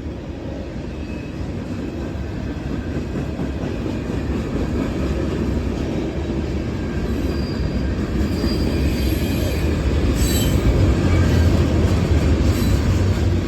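Freight train cars rolling past, a steady rumble of steel wheels on rail that grows louder, with a few brief high wheel squeals and a single sharp clank about two-thirds of the way in.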